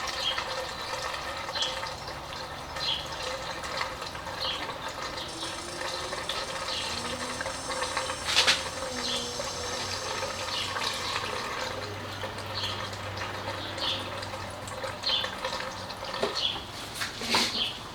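Gasoline pouring steadily into a motorcycle fuel tank, the tank filling.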